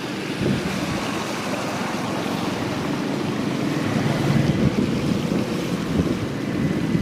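Floodwater rushing and splashing in a steady, dense wash, with wind buffeting the microphone.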